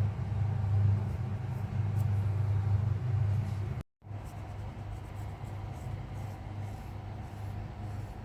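Domestic cat purring, a steady low rumble with fast pulsing. It breaks off just before halfway and comes back quieter.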